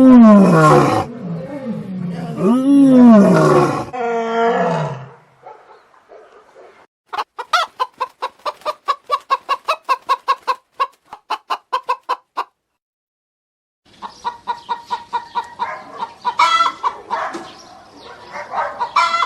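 A lion roaring in two long calls that fall in pitch. After a pause, chickens cluck in a rapid, even series of about four or five clucks a second. After a brief silence a second, louder run of clucking follows.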